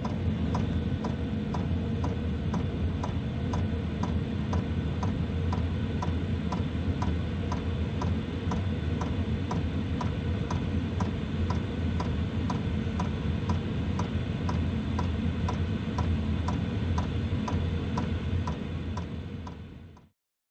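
Cheap diesel FF parking heater running: its electromagnetic fuel pump ticks evenly about twice a second over the steady rush and rumble of the blower fan and burner. The sound fades out near the end.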